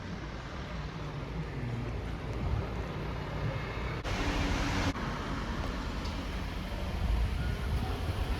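Steady low rumble of vehicle traffic, with a brief hiss about four seconds in.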